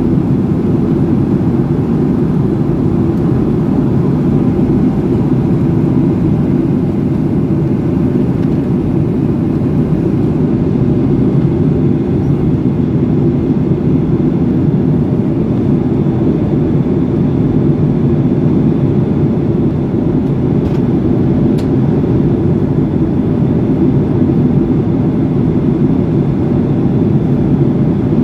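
Steady, loud cabin noise of a passenger aircraft in flight: an even low rumble and rush of engines and airflow, unchanging throughout.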